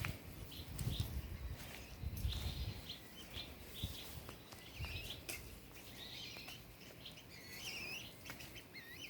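Birds chirping in short calls that bend up and down in pitch, busier in the second half. There are a few soft low thumps in the first few seconds.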